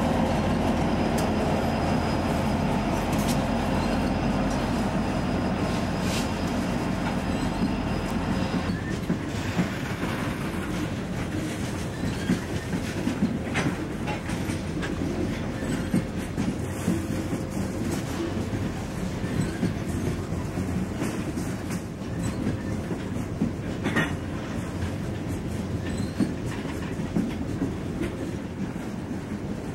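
A long diesel-hauled freight train passing close by. For the first several seconds the locomotives' engines give a steady hum. Then the freight cars roll past, their wheels clattering over the rail joints.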